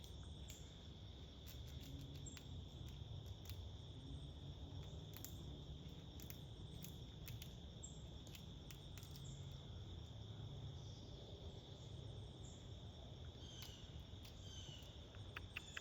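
Faint, steady high-pitched trill of an insect chorus, such as crickets, with scattered light ticks and a few short chirps near the end.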